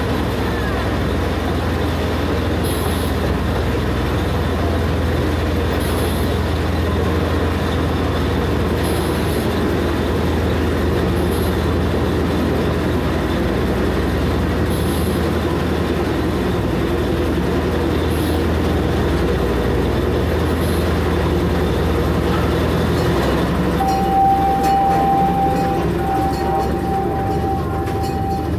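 Ride-on park train heard from an open passenger cart, a steady rumble of the cars running on the track through a tunnel. About three-quarters of the way in, a steady high squeal or tone is held for a few seconds.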